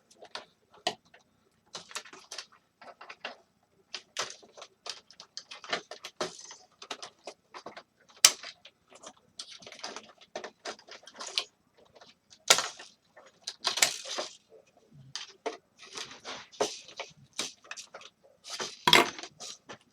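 A space heater being forced apart by hand and with tools: irregular clicks, knocks, clatter and scraping from its casing and parts, with louder sharp knocks scattered through.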